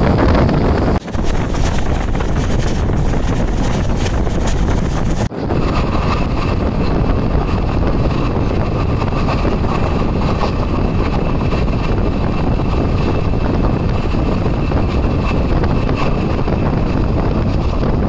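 Express passenger train running at speed, heard from a coach door. Steady track and running noise with heavy wind buffeting the microphone, broken by two very short drop-outs, about a second and about five seconds in.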